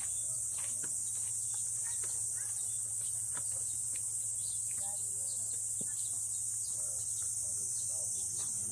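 Outdoor insect chorus: a steady, unbroken high-pitched drone, with faint scattered chirps and clicks over a low hum.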